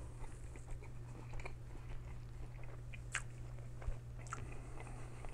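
Close-up of a person chewing and biting into a large meat-stacked sandwich: faint wet mouth sounds with a few small crunches, over a steady low hum.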